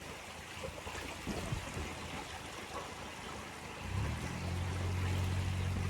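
Faint trickling water with a few small knocks; about four seconds in, a narrowboat's engine comes in with a steady low hum.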